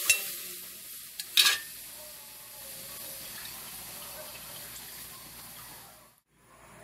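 Ginger, onion and garlic sizzling in hot olive oil while being stirred, with two sharp knocks of a utensil against the pot early on. The sizzle settles to a steady hiss and fades out near the end.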